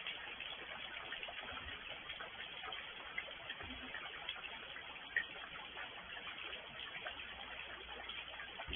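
Rain falling, a steady dense patter of drops ticking on a surface, with one sharper drop about five seconds in.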